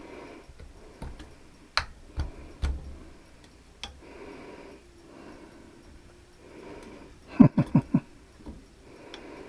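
Hands working on metal parts of a central air unit: scattered sharp clicks and knocks, and a quick run of four loud squeaky strokes about seven and a half seconds in. Slow, even breathing sounds close on the head-worn microphone every couple of seconds.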